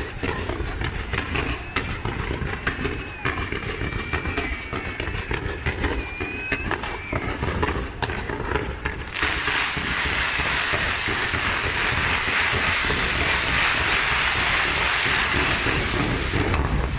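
Fireworks display: a rapid, dense crackle of bangs from comets and shells, with a few whistles. About nine seconds in, a loud continuous hissing rush begins as a massed fan of comets fires, and it drops away near the end.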